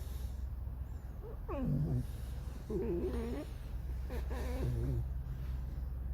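Pet fox squeaking in three drawn-out, wavering calls: the first slides steeply down in pitch about a second and a half in, the next two waver up and down, a plaintive 'song'.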